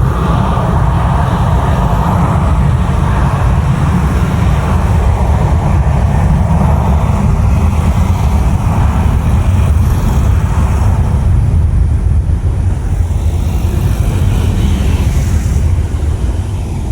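Jet airliner engines running loud and steady, a deep rumble with a rushing band above it that fades in the second half.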